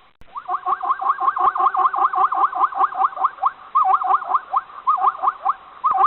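An animal giving fast runs of short, squeaky chirps that sweep up and down in pitch, about five or six a second, with brief pauses between runs.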